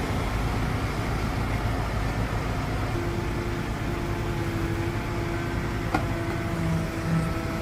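Small Kubota crawler excavator's diesel engine running steadily. A steady whine joins about three seconds in, and there is one sharp knock near six seconds.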